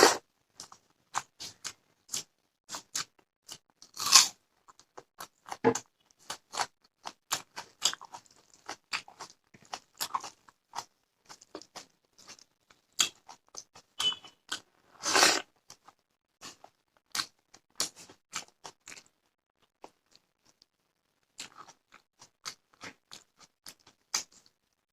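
Close-miked chewing and crunching of a meal of fish, rice, raw cucumber and onion, a rapid run of small wet clicks and crackles. There are louder crisp bites at the very start, about four seconds in and around fifteen seconds in, and a brief lull a few seconds before the end.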